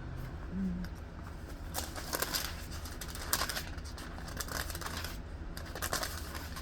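Scattered short rustles and light clicks of something being handled while a verse is looked up, over a steady low hum.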